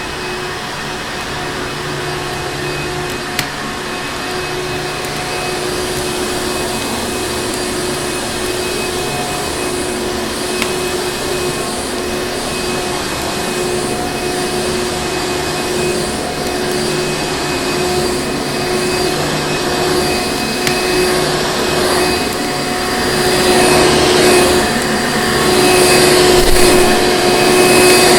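Vacuum cleaner running continuously, a steady motor noise with a whine. It grows louder and wavers over the last few seconds.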